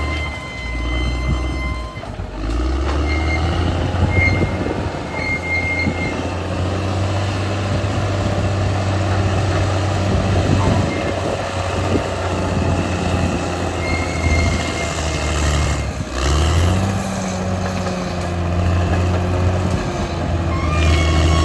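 Caterpillar D6R XL bulldozer's diesel engine working under load, with a steady low drone. The engine note dips briefly about two seconds in and again around sixteen seconds in, then comes back, higher, as the load changes.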